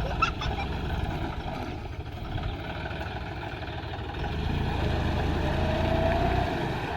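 John Deere 5310 tractor's diesel engine running steadily, growing louder about four seconds in.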